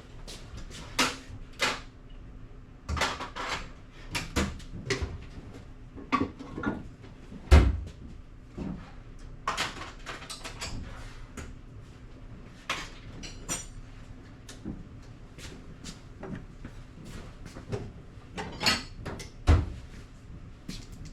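Hand tools being put away: scattered clinks, clanks and knocks of metal handling, with two heavier thumps, one about seven and a half seconds in and one near the end.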